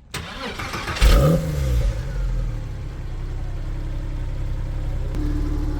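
Sports car engine starting: a sudden start and a brief rev flare about a second in, then settling into a steady idle that resonates around the garage.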